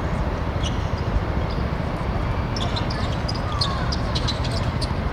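Field sound of a seven-a-side football match: a steady low rumble with scattered short, sharp knocks and ticks, which come most thickly in a quick run from about halfway through.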